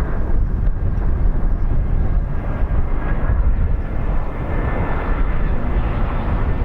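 Jet airliner's engines running: a loud, steady rushing noise with a faint high whine held over it.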